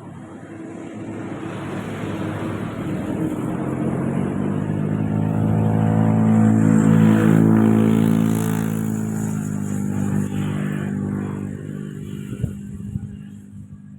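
A motor vehicle passing by: its engine grows steadily louder, peaks in the middle, then fades away. A brief click sounds near the end.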